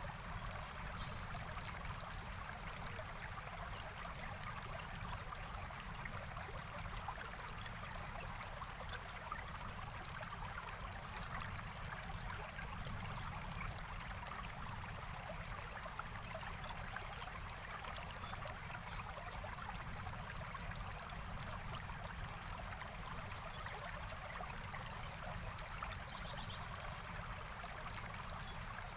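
Forest stream flowing steadily, an even rush and burble of water, with a faint short bird call near the end.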